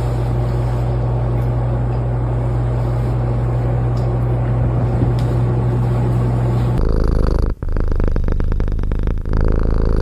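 Domestic cat purring loudly close to the microphone. About seven seconds in the sound changes abruptly to another purr with short breaks in it.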